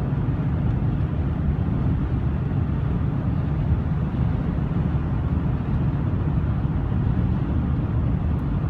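Light aircraft engine running steadily, a dense low rumble that holds level throughout.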